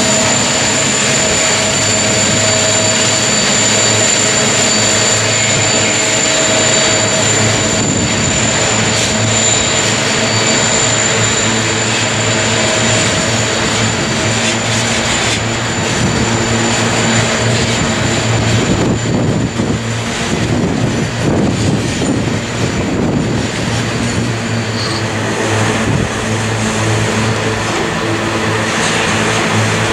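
Diesel locomotives of a loaded coal train running past with a steady engine drone and high whine that fades within the first several seconds. The loaded coal hopper wagons then keep rolling by with a continuous rumble of wheels on rails.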